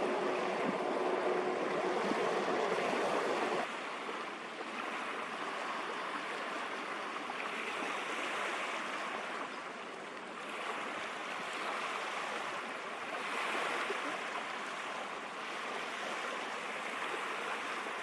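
Waves and rushing water, with wind on the microphone; the water noise swells and eases every few seconds. A faint steady hum in the opening seconds stops abruptly about three and a half seconds in, where the sound drops in level.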